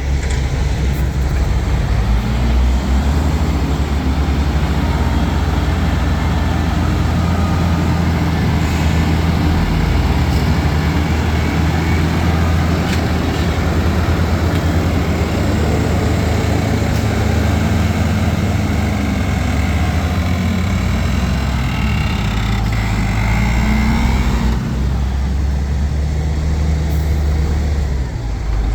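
Diesel engine of heavy earthmoving machinery working sand, running steadily loud with its pitch rising and falling as the load changes. About 24 seconds in, the noisier upper part of the sound eases off, leaving the engine's low drone.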